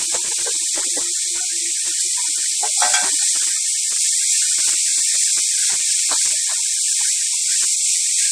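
Grated raw papaya sizzling in hot oil in a nonstick wok: a steady high hiss, with a wooden spatula scraping and clicking against the pan as it is stirred, loudest in a clatter about three seconds in.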